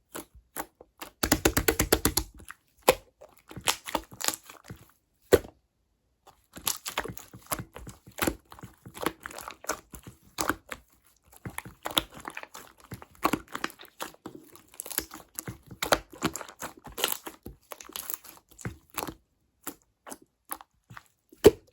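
Slime being squished and stretched by hand, making irregular wet clicks, crackles and air-bubble pops. A dense run of crackling comes about a second in, then scattered bouts follow, thinning out near the end.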